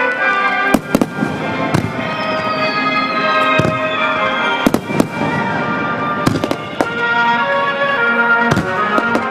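Aerial firework shells bursting, about ten sharp booms at irregular intervals, some in quick pairs, which the digital camera's microphone renders oddly. Music from the show's loudspeakers plays under them.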